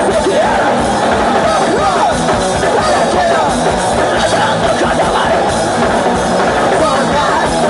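Hardcore punk band playing live and loud: distorted guitar with bending notes over fast drums.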